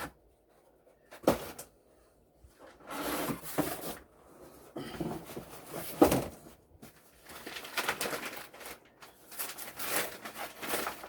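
Cardboard packaging being handled as a cordless stick vacuum is taken from its box: bouts of rustling and scraping, with a sharp knock about a second in and a louder one about six seconds in.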